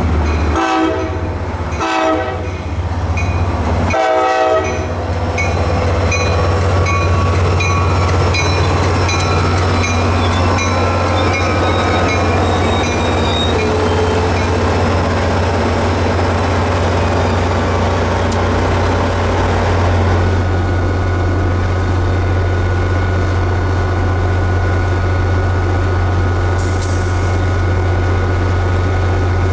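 NJ Transit GP40PH-2B diesel locomotive sounding its K5LA air horn in a few blasts during the first five seconds, while the grade-crossing bells ding steadily about twice a second. The bells stop about halfway through, and the locomotive's diesel engine drones on, with a steady whine joining in over the last third.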